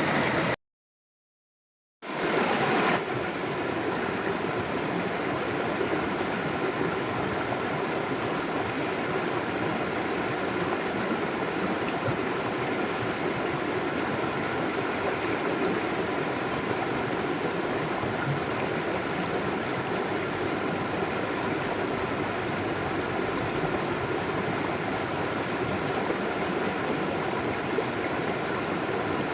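River water flowing in a steady rush. It cuts to dead silence about half a second in for over a second, then resumes.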